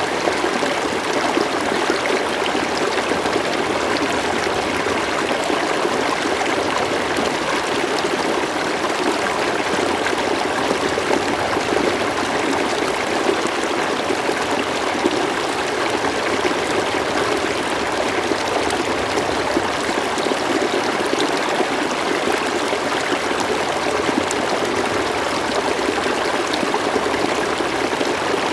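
River water flowing over stones, a steady babbling rush with fine trickling splashes.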